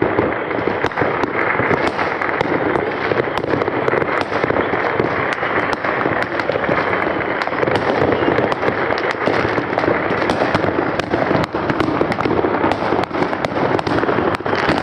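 A dense, unbroken barrage of fireworks and firecrackers from many directions at once: countless overlapping pops, cracks and bangs with no pause.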